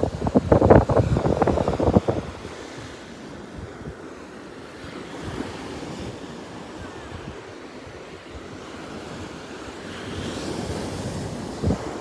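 Atlantic Ocean surf washing up the beach with wind buffeting the microphone: loud rough gusts for the first two seconds, then a steady wash, and a wave rushing in with a brighter hiss near the end.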